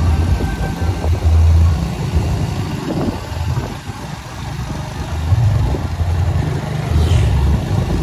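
A road vehicle running, with a strong uneven low rumble.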